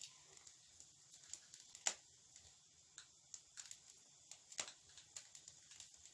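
Small wood fire crackling in a fireplace: irregular sharp pops and snaps over a quiet background, with one louder pop about two seconds in.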